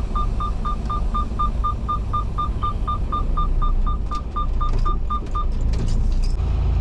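Electronic warning chime beeping rapidly at one steady pitch, about four beeps a second, over a truck's diesel engine idling; the beeping stops about five seconds in.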